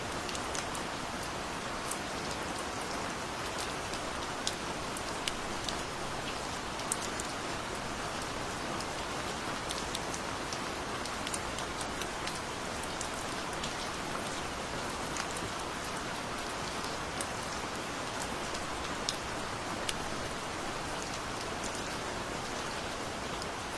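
Steady, gentle rain falling, an even hiss with scattered sharp drop ticks.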